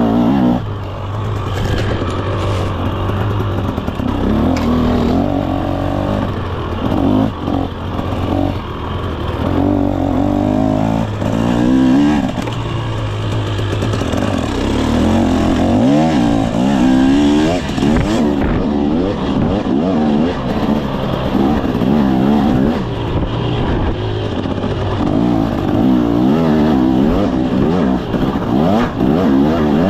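2024 KTM 300 SX two-stroke dirt bike engine under riding load, revving up and dropping back again and again as the throttle is worked.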